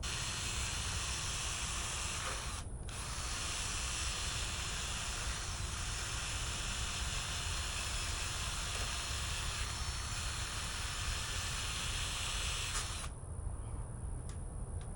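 Paint being sprayed in a long, steady hiss, with a short break about three seconds in, cutting off sharply near the end.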